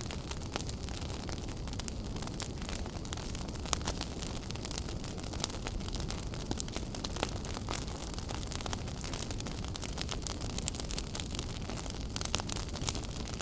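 Fire burning in a fireplace, crackling with many sharp pops scattered over a steady low rumble.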